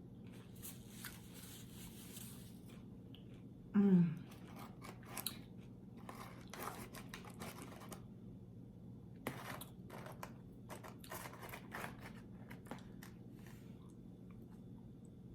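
Close-up chewing and crunching of tortilla chips and tacos: a run of crisp crackles and mouth clicks, with a short low voiced sound falling in pitch about four seconds in.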